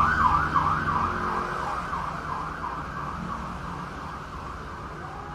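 Siren sounding a rapid rising-and-falling yelp, about three sweeps a second, fading away gradually.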